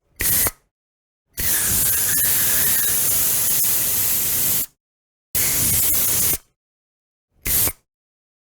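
Spray can hissing in four separate bursts: a short puff, a long spray of about three seconds, one of about a second, then another short puff.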